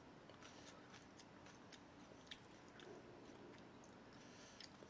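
Faint chewing of food close to the microphone, with a few small wet clicks scattered through it.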